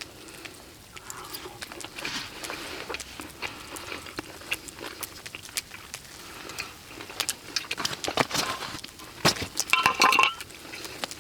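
Metal cookware and utensils clinking and scraping during campfire cooking, with scattered small clicks. A louder run of clinks comes near the end, one of them ringing briefly.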